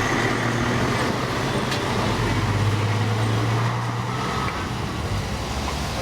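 N700A Shinkansen train rolling slowly over a level crossing: a steady low hum under a general rumble, with the hum fading about four and a half seconds in.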